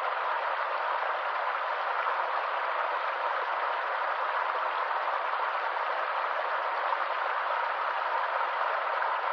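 Stream water running steadily: an even, unbroken rushing hiss with no deep rumble and no single splashes standing out.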